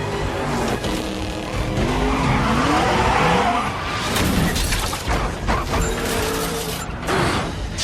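Film action soundtrack: car engines running hard and tyres skidding, with sharp crash and impact hits about four, five and seven seconds in, over a music score.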